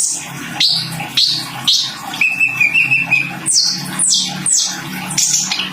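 A sunbird (kolibri ninja) singing: a run of sharp, high chirps that each sweep downward, about two a second, with a short fluttering trill about two seconds in.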